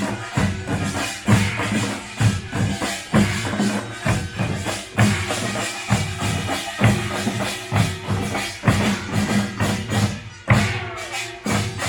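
Korean pungmul (nongak) percussion band playing: drums and small hand gongs struck together in a dense, driving rhythm.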